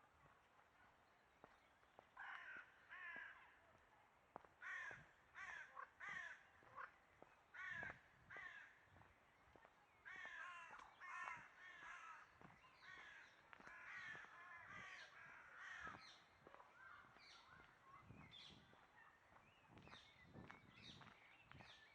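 Faint bird calls, many short calls in quick runs starting about two seconds in.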